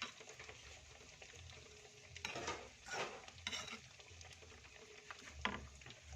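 Food frying in a pan, with a steady sizzle, and a spatula stirring and scraping through it in a few short strokes, about two to five seconds in.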